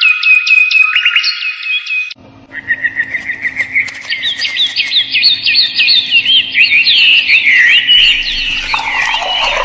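Birds chirping and twittering in quick, gliding notes. The sound cuts off sharply about two seconds in and then resumes, denser, over a steady low hum.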